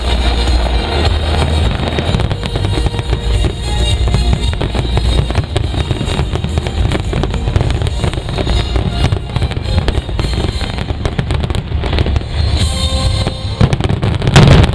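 Fireworks bursting and crackling over loud drum-driven show music, with a cluster of louder bangs near the end.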